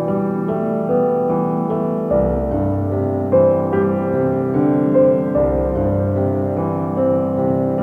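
Slow, gentle piano music, soft notes ringing over deep bass notes.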